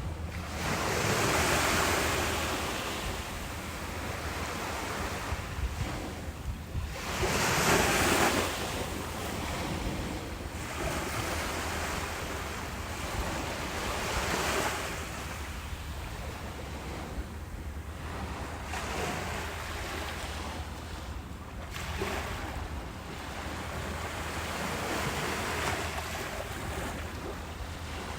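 Ocean waves breaking on a beach, the surf swelling and washing back every few seconds, with the two loudest breakers about two seconds in and about eight seconds in. A low wind rumble on the microphone runs underneath.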